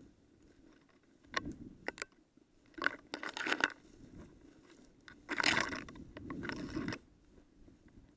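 Footsteps and brushing through dry grass cover, crunching and rustling in three irregular spells with quiet gaps between.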